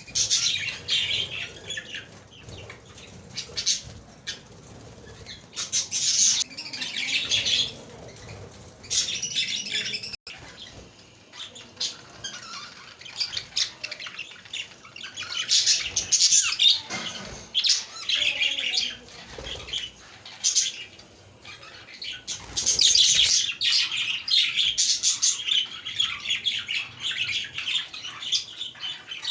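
A group of budgerigars chirping and chattering in bouts of busy, high-pitched warbling. The bouts swell and fade every few seconds, with the longest and loudest stretch near the end.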